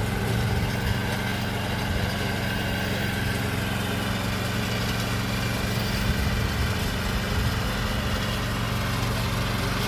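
Maxxi PF48 rice transplanter's small engine running steadily at an even speed.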